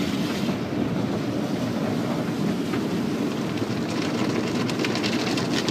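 Automatic car wash heard from inside the car: a steady rumble of the wash's brushes and machinery, with water spray starting to patter against the car about four seconds in.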